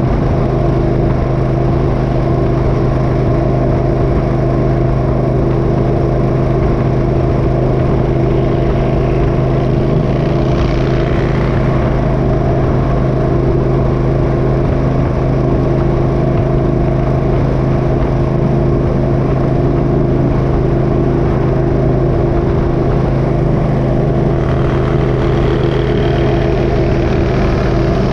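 Motorcycle engine running at a steady speed under way, a constant even drone, with a brief swell of rushing noise about ten seconds in.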